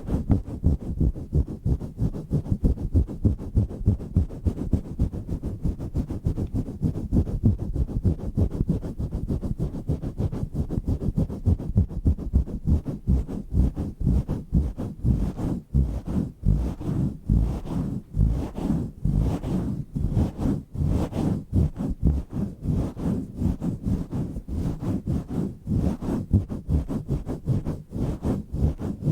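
Microphone cover being swirled and pumped against the microphone by hand: a deep, rough rubbing made of rapid, uneven strokes, with some sharper, brighter strokes toward the middle.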